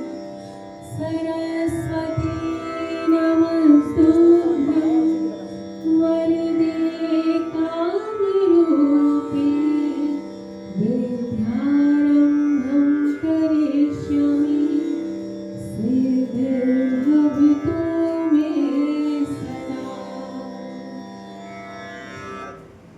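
A woman singing a devotional Sanskrit shloka in an Indian classical style, in long gliding phrases over a steady drone, fading out near the end.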